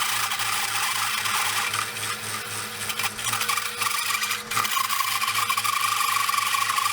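A 1981 drill press cutting a large hole in a metal tube with a step bit: a steady cutting noise over the motor's pulsing hum, with a steady high whine setting in about four and a half seconds in.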